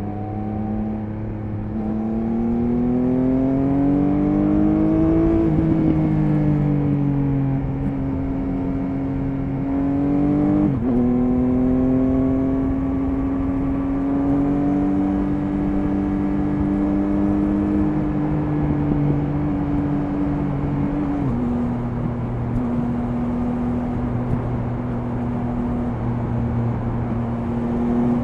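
Triumph Speed Triple 1050 RS's three-cylinder engine pulling up through the revs for a few seconds, then shifting up twice in quick succession and running at steady revs, with one more small drop in revs later on.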